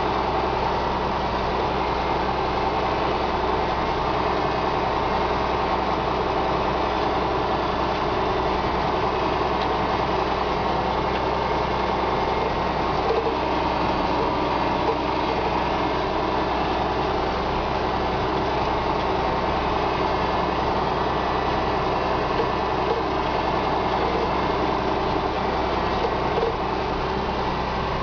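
John Deere 6610 tractor's diesel engine running steadily under load while pulling a plough.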